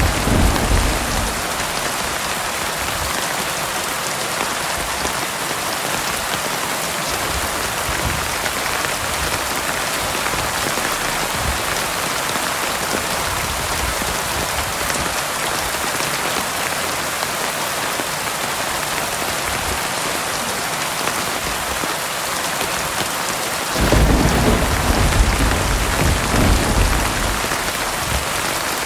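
Heavy rain falling in a steady, loud hiss. Thunder rumbles low near the end, with the tail of an earlier rumble fading out in the first second.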